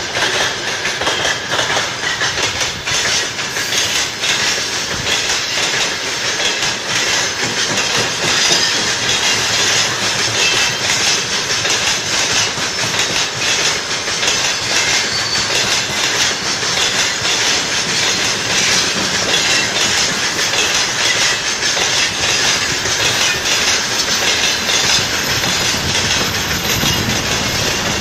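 Freight train wagons, open gondola cars and container flatcars, rolling past with their wheels clattering steadily over the rail joints.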